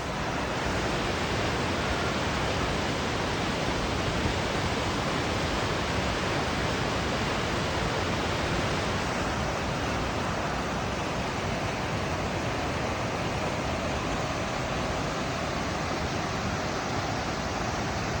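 Steady roar of rushing water, an unbroken even rush with no breaks or changes.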